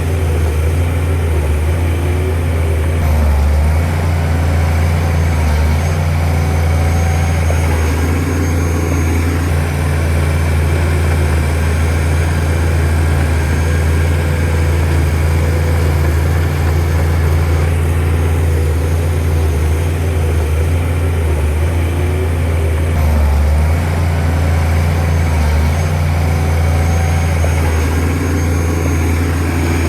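Shantui DH17C2 bulldozer's diesel engine running steadily with a deep, constant hum as the machine works.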